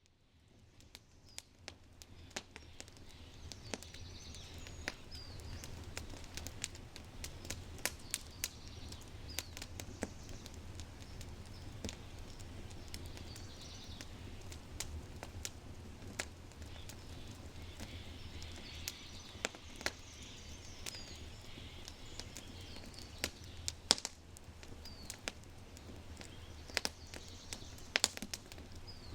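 Oak fire crackling in a brick fireplace: frequent sharp pops and snaps over a low steady rumble, with birds singing in the background. The sound fades in over the first few seconds.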